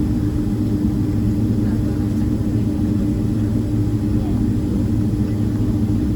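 Cabin noise of a Boeing 767-300ER: its jet engines give a steady low rumble with a steady hum.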